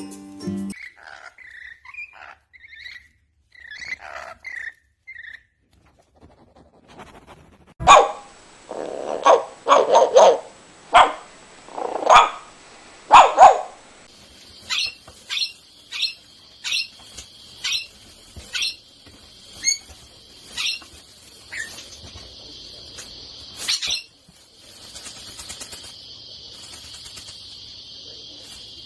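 Bird chirps, then a run of about eight loud barks in quick succession, then short sharp high chirps repeated about once a second.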